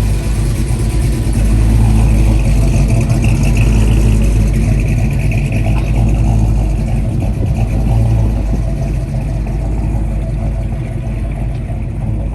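Car engine running close by, swelling in level a couple of times and easing off slightly near the end.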